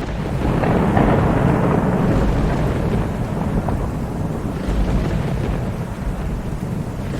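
Thunder rolling over steady rain: a low rumble swells about a second in and slowly dies away.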